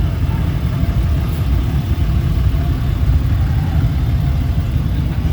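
Vehicle engines running steadily, a loud, deep, even rumble with no clear revs, with faint voices underneath.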